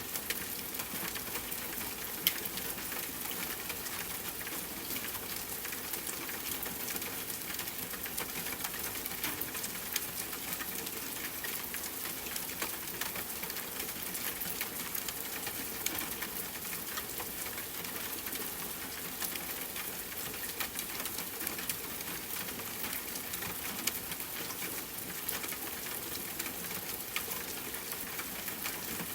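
Steady rainfall hiss blended with a crackling wood fire: many small sharp pops and snaps scattered through, one louder pop about two seconds in.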